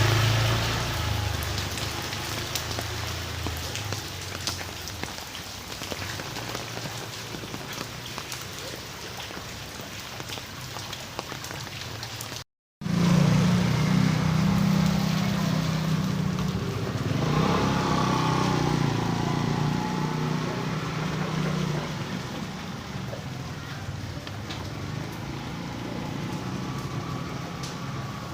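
Rain falling steadily. A motor vehicle engine hums low at the start, and again from about halfway through for several seconds, over the rain.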